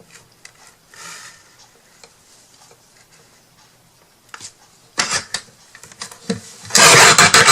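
Craft tools and materials being handled on a worktable: faint handling noises, then a few sharp clicks and knocks about five seconds in and a loud burst of rustling and clattering near the end.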